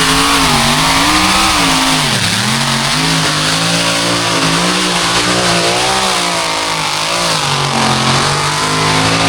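Truck engine running under hard throttle down a track, its pitch rising and falling over and over, with a sharp dip about two seconds in.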